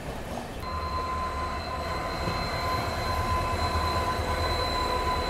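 Passenger train running on the track, heard from its own coach: a low steady rumble, with a steady high squeal from the running gear that comes in about half a second in as the train slows.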